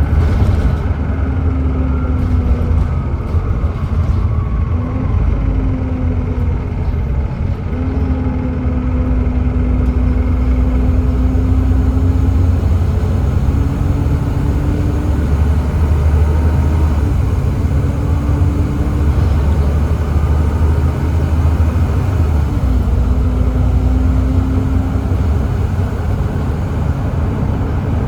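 Volvo B7TL double-decker bus running under way, its Volvo D7C diesel engine rumbling steadily with a pitched driveline tone that rises and falls and breaks off several times as the bus changes speed and the ZF Ecomat automatic gearbox shifts.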